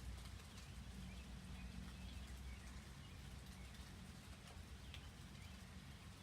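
Light rain pattering faintly, with a few scattered bird chirps and a low steady rumble beneath.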